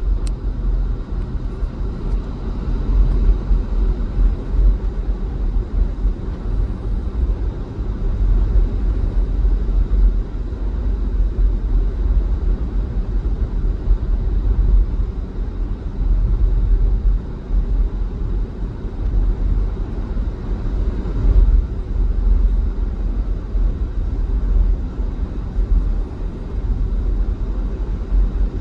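Steady low rumble of a car being driven along a highway, engine and tyre noise with no distinct events.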